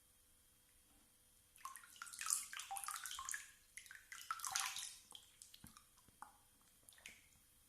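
Water splashing and sloshing in a bath for about three seconds, then a few small splashes and drips that die away.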